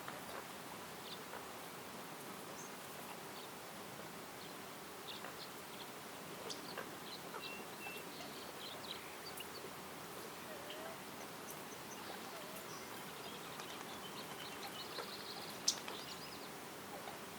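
Forest ambience: scattered short bird chirps and whistles over a steady background hiss, with a quick trill near the end and one sharp click shortly before it.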